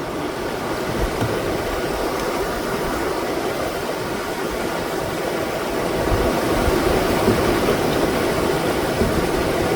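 Steady rush of a waterfall, a dense even roar of falling water that grows a little louder past the middle.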